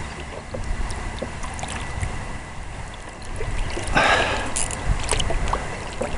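Water sloshing and splashing beside a kayak as a hooked largemouth bass is fought, with a louder splash about four seconds in, over a low rumble.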